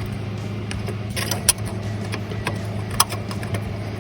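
A few light clicks and knocks of small metal parts and bolts being handled during reassembly of an engine-bay electric cooling fan, over a steady low hum.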